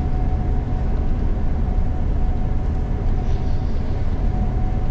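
Gleaner combine harvester running steadily while harvesting soybeans, heard from inside the cab: an even, deep drone with a faint constant whine.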